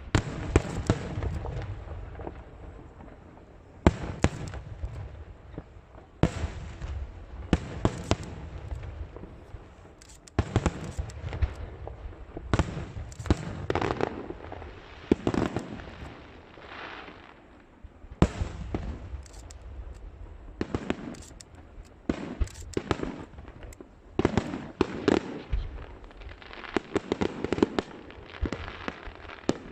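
Aerial fireworks shells bursting one after another, a sharp bang about every two seconds, each trailing off in rumbling and crackling.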